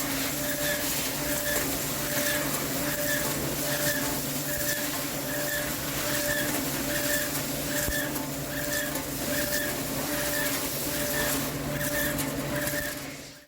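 Heavy CNC lathe turning a forged steel shaft, the spindle and cutting insert running with a steady hum and a tone that pulses evenly about twice a second. The sound fades out near the end.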